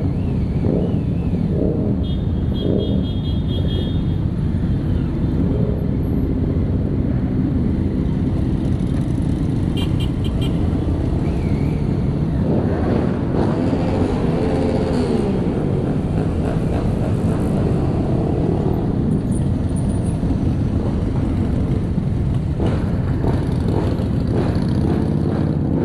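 Many motorcycle engines running together in a slow mass ride, with revving that rises and falls about halfway through.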